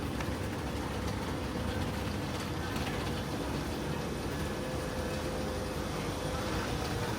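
Steady rumble and hiss with a constant mid-pitched hum, unchanging throughout.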